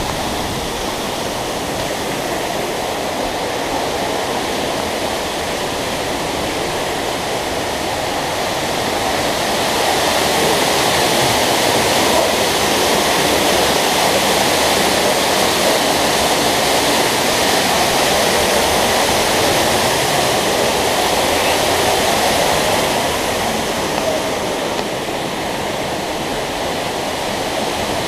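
Man-made waterfall pouring into a pool: a steady rush of falling water. It grows louder about a third of the way in and eases back near the end.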